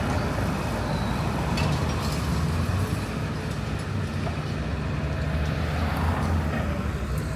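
Steady low engine rumble with a haze of outdoor noise.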